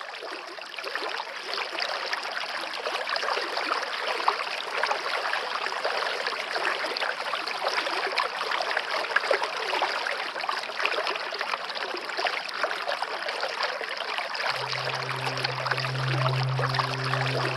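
Stream water flowing and trickling, fading in at the start. Near the end a low, steady musical drone comes in beneath the water.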